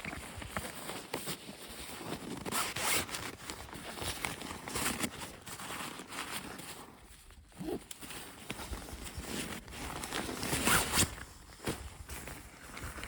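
Irregular short rasping strokes of varying length, like a zipper being pulled or gear being handled.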